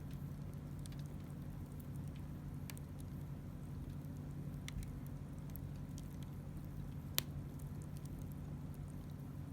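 Wood campfire crackling: scattered small sharp crackles and one louder pop about seven seconds in, over a low steady hum.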